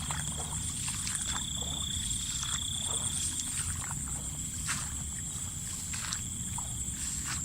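Outdoor chorus of frogs and insects calling: a fast, steady high trill and a lower steady tone that drops out about three seconds in, with scattered faint clicks and a low rumble underneath.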